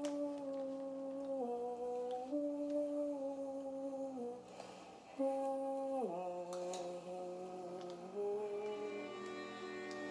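A woman humming a slow, simple melody in long held notes that step up and down every second or so.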